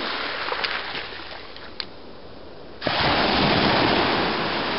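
Ocean surf washing on a beach; nearly three seconds in, a wave breaks with a sudden loud rush that slowly fades.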